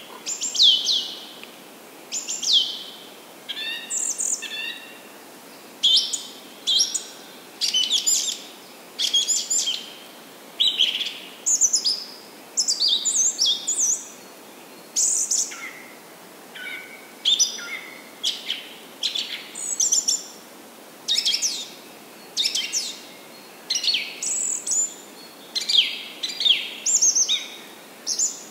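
A songbird singing loudly and continuously, a run of short, varied chirps and downward-sweeping calls about once a second, over the steady rush of a flooded creek running high.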